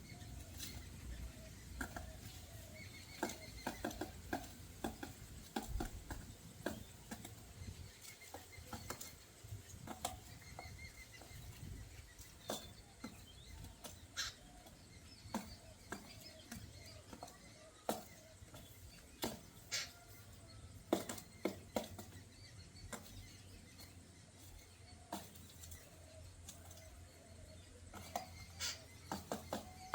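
Birds moving about and playing: scattered sharp taps and clicks, with faint short chirps now and then over a low hum.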